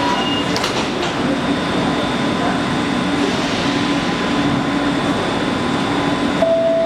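Electric passenger train at a station platform: a steady running noise with a hum. A couple of clicks come just under a second in, and a short steady tone starts near the end.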